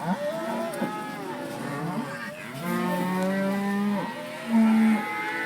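Many cattle in a herd being driven past, mooing and bawling one over another, with a long call held for over a second near the middle and a louder one near the end.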